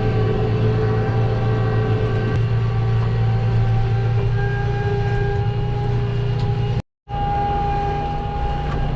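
Farm tractor engine running steadily, a low hum with a faint steady whine above it. The sound cuts out suddenly for a moment about seven seconds in, then carries on.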